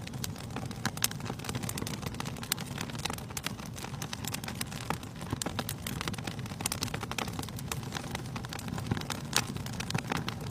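Fire burning in a fireplace, crackling with many irregular sharp pops over a low steady rumble; a louder pop comes about a second in and another near the end.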